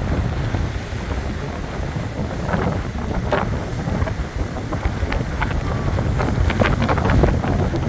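Strong wind buffeting the microphone, with sea waves washing and splashing against the shore in irregular bursts.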